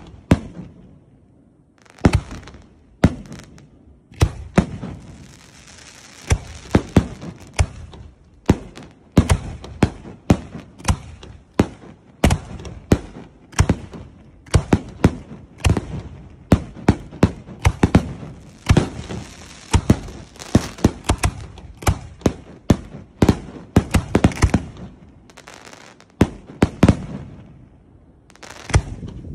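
Starmine fireworks barrage heard close to the launch site: a rapid string of sharp launch reports and shell bursts, several a second. It starts about two seconds in and eases into a short lull near the end before a few more bangs.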